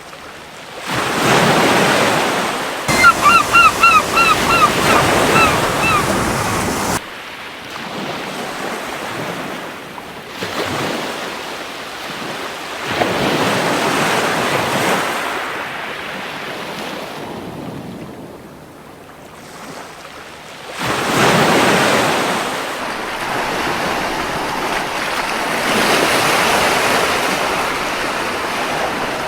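Gentle sea waves washing onto a beach, the surf swelling and fading every few seconds. About three seconds in, a gull gives a rapid series of about ten short calls.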